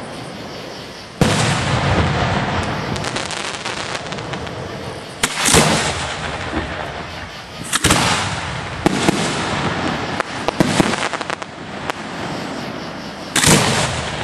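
Fireworks display heard from the firing site: four big booms from bursting shells, the first about a second in and the last near the end, with bouts of crackling and popping between them.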